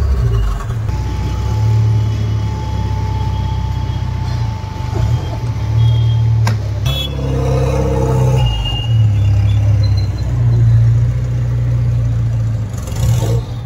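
Car engine running steadily, a low hum that swells and eases slightly, with a single sharp click about six and a half seconds in.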